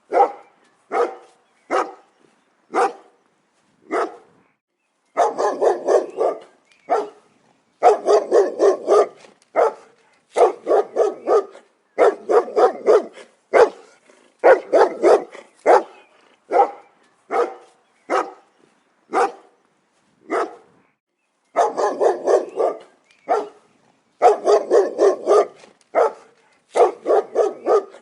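Dog barking in rapid volleys of several barks each, broken by single barks and short pauses.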